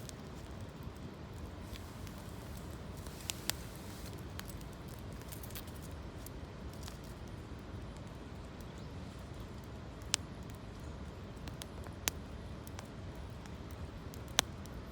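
Wood campfire burning with a low steady rustle, broken by a few sharp crackling pops, the loudest near the end.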